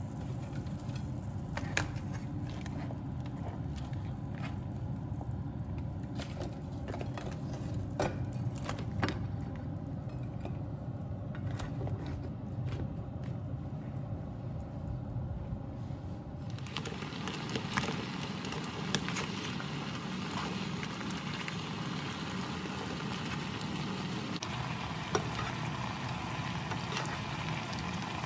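Garlic butter sauce simmering and sizzling in a nonstick pan, with a few sharp clicks and light knocks. The sizzle turns hissier a little past halfway through.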